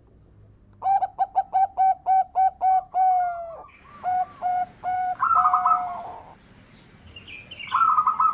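Zebra dove (perkutut) cooing song. A run of quick, clipped coos starts about a second in, followed by a longer drawn-out note, a few more coos and a fast trilled phrase. Another short trill comes near the end.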